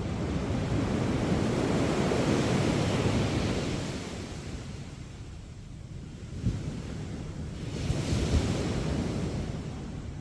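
Andaman Sea waves breaking and washing up a sandy beach: one surge of surf peaks about two seconds in and eases off, and a second comes in around eight seconds. A few low thumps of wind buffet the microphone near the second surge.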